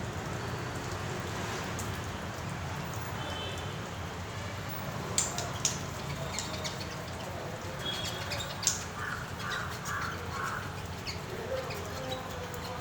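Birds calling, including a run of four short calls about two-thirds of the way in, over a steady low background hum, with a few sharp clicks.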